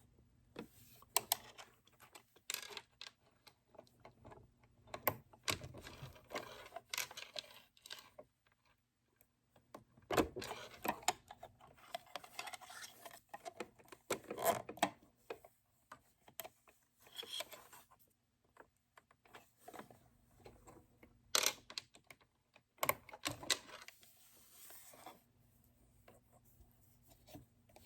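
Scattered small clicks, taps and rustles of hands working at a sewing machine, with quiet gaps between them. These are handling sounds of setting up the machine, not the machine stitching.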